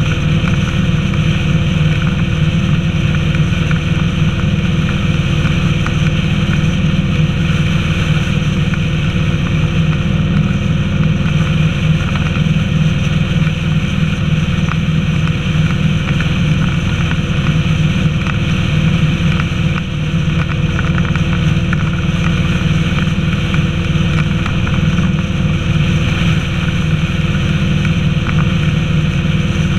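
Honda VTX 1300's liquid-cooled V-twin engine running steadily at cruising speed, with wind and road noise. It is picked up by a camera mounted on the motorcycle.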